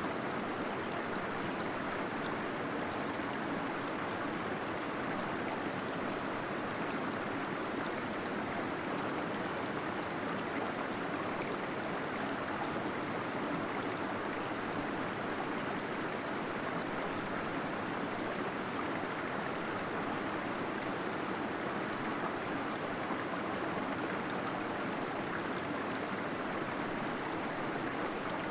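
Small waterfall splashing and gurgling steadily inside a cave.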